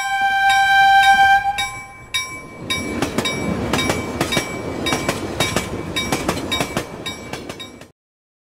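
A train horn sounds one steady note for about a second and a half, then the rumble and clatter of a passing train, with a bell-like chime repeating evenly throughout. The sound cuts off abruptly near the end.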